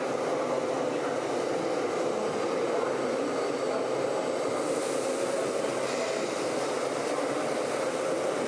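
Steady whirring of radio-controlled scale model trucks running, the electric motors and gearboxes giving a wavering mid-pitched whine.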